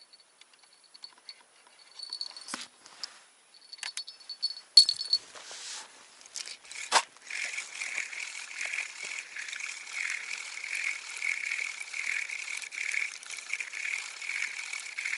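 Fishing tackle clicking and rattling, then a sharp click about seven seconds in, after which a spinning reel is wound in with a steady, pulsing whirr.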